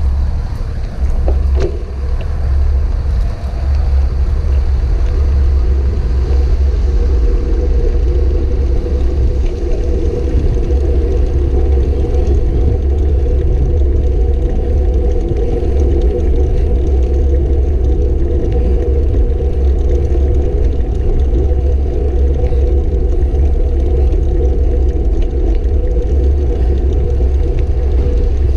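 Steady low rumble of wind and road noise on a moving bike, building over the first few seconds and then holding steady.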